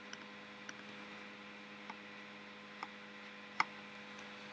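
A steady low electrical hum, with about five sharp clicks spaced irregularly through it, the loudest near the end.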